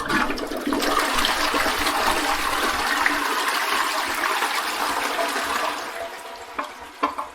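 Toilet flushing: a rush of water that starts suddenly, runs strongly for about five seconds, then tapers off, with a couple of short sharp sounds near the end.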